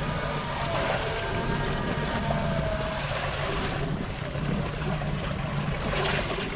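Small fishing boat's engine running steadily at low speed, with wind and water noise over it.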